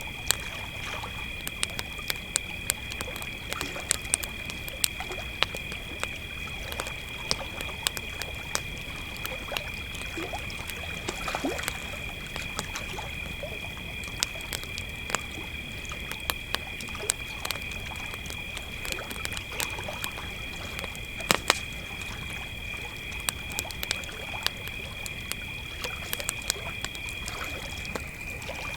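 Crickets trilling steadily at two overlapping pitches, over the crackle and sharp pops of a campfire. The higher trill stops shortly before the end, and the loudest pop comes a little past two-thirds of the way through.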